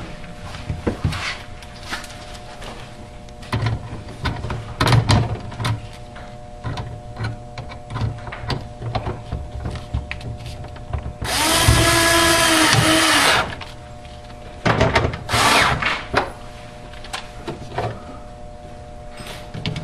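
Power screwdriver or drill running for about two seconds, then again briefly a few seconds later, driving the screws back into a refrigerator's temperature control housing. Around it come scattered clicks and knocks of parts being handled.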